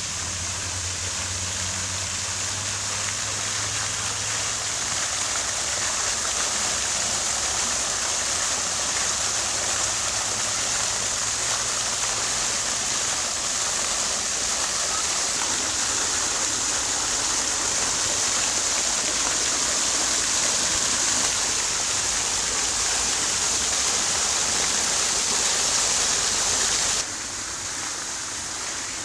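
Fountain water splashing and falling in a steady rush. About two seconds before the end it cuts abruptly to a quieter, thinner rush.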